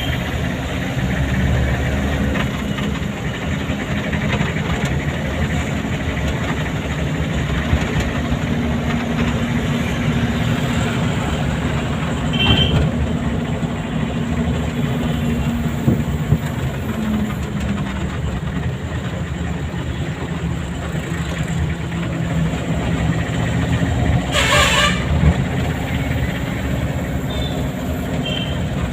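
Car engine running with road noise, a steady low rumble, heard while driving, with a brief rushing noise near the end.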